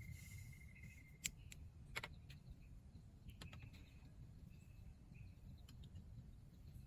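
Near silence: a faint steady insect trill that stops about a second in, two sharp clicks, then faint scattered chirps over a low rumble.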